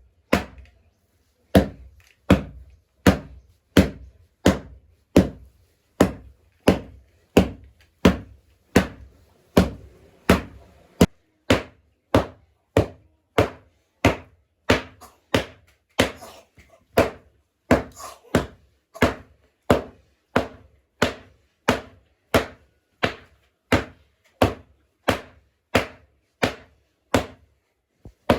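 Steady series of sharp chopping or striking blows, a little more than one a second, each a hard hit with a short ring after it.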